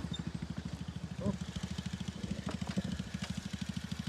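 Small engine idling steadily, an even, fast beat of about eleven pulses a second.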